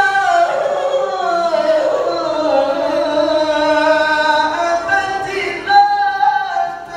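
A qari's voice reciting the Quran in a long, drawn-out melodic phrase, sliding down in pitch over the first few seconds and then holding with a wavering vibrato. A new phrase begins near the end.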